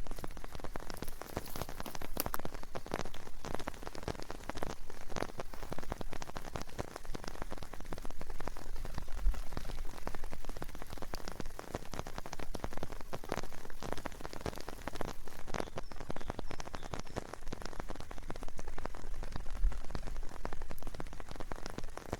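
Steady rain falling, a dense stream of many separate drops hitting surfaces close by.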